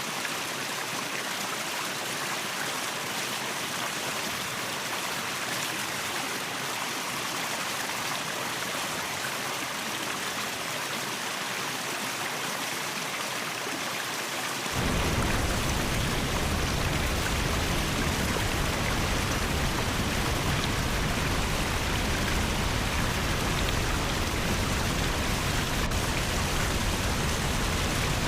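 Waterfall: a steady rush of falling water. About halfway through it cuts to a louder, deeper rush.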